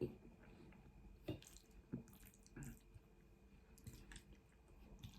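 Faint, wet mouth clicks and smacks of someone eating pasta close to the microphone, a few short ones about a second apart.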